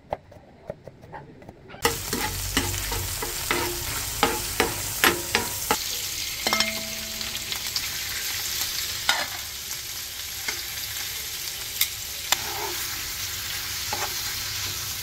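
Food frying in a pan: the sizzle starts suddenly about two seconds in and then runs steadily, with quick clicks and taps of a utensil stirring against the pan, most of them in the first few seconds of the frying.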